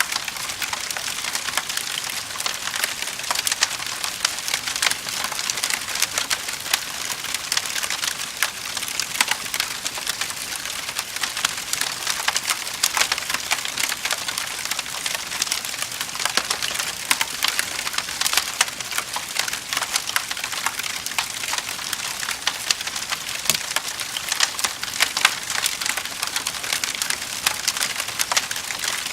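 Wood fire in a fireplace crackling and popping steadily, a dense stream of small sharp snaps.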